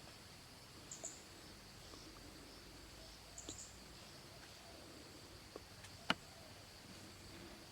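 Faint outdoor ambience of a steady, high insect buzz. Brief high chirps come about a second in and again about three and a half seconds in, and a single sharp click comes about six seconds in.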